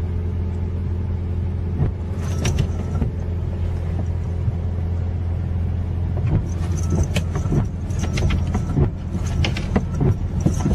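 A steady low drone like a vehicle engine heard from inside, with scattered clicks and knocks over it that grow more frequent in the second half.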